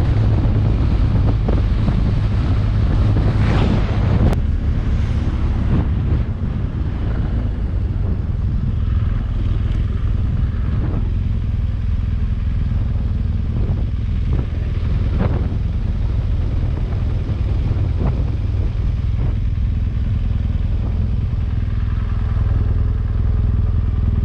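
Motorcycle engine running steadily while riding, with wind rushing over the microphone and a few brief gusts.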